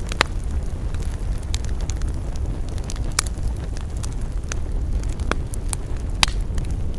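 Wood campfire crackling: frequent small snaps and a few louder pops over a steady low rumble.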